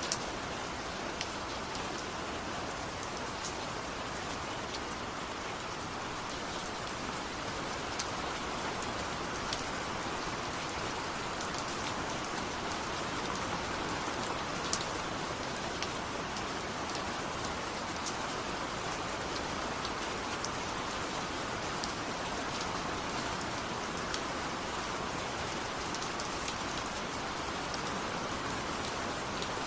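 Steady rain falling, with a constant patter and scattered individual drops ticking sharply on a surface.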